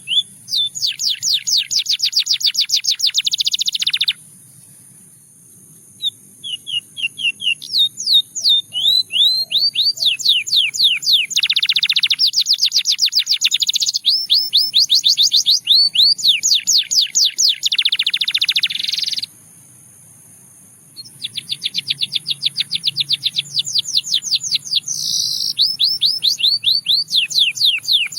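Russian singing canary singing long phrases of fast trills and rapidly repeated rising notes, with two short pauses between phrases.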